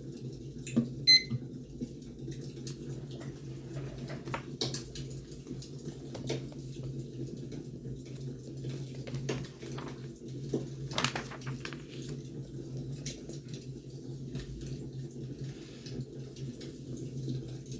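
Firewood burning: a steady low rumble with scattered crackles and pops, the sharpest pops about a second in.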